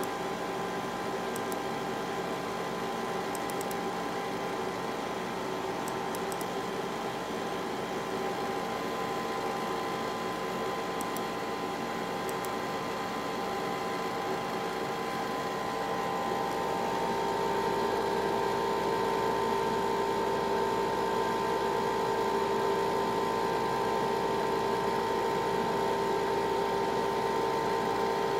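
Zeusminer Hurricane X2 ASIC miner running, its cooling fan giving a steady whirring hum with a few steady whining tones. It grows louder a little past halfway through.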